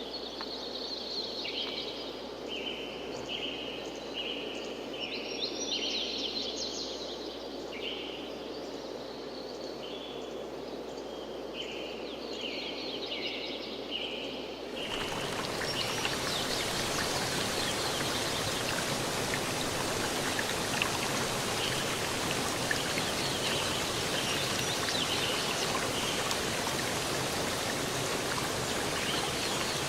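Birds calling in repeated short phrases over a low rush of running water. About halfway through, the sound cuts abruptly to a louder, fuller rush of flowing water, like a stream or small waterfall, with faint bird calls still in it.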